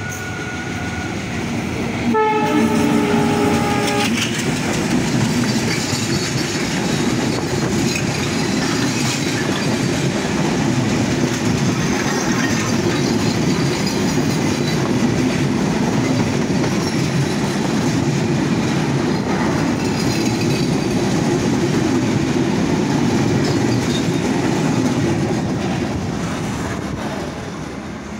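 The Panchagarh Express passing at speed on the adjacent track. Its diesel locomotive sounds a multi-note horn for about two seconds, a couple of seconds in. Then its coaches rush past close by for about twenty seconds in a loud rumble and clickety-clack of wheels, which fades as the last coach goes by near the end.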